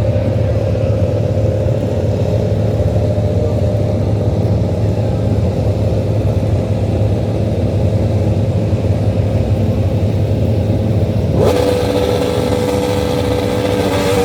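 Steady, loud vehicle rumble with a faint constant whine, like engine and road noise from a car driving at an even speed. About eleven seconds in, the sound changes suddenly: a brighter hiss and a clearer steady whine come in.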